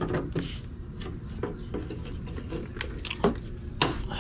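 Scattered light knocks and clicks of a cracked plastic car part being handled and turned over, over a steady low hum.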